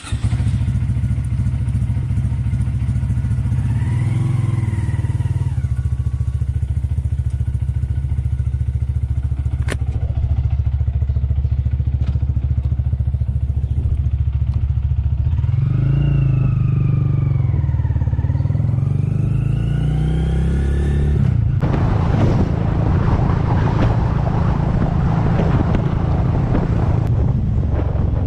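Honda Grom 125's single-cylinder four-stroke engine running under way, mostly steady, its pitch dropping and then climbing again about sixteen to twenty-one seconds in. From about twenty-two seconds on, wind rushing over the microphone rises alongside the engine.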